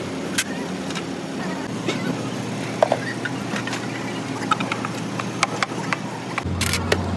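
A motor or engine running steadily, its low hum changing about six and a half seconds in, with scattered clicks and taps over it.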